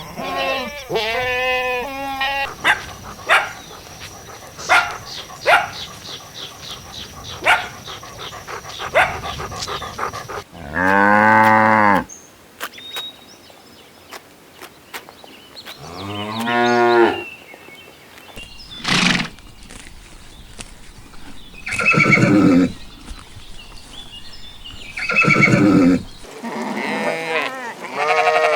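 Farm animals calling one after another, a mix of bleats and moos, some long and some short. A run of sharp irregular clicks fills the stretch between the first calls and a long loud call.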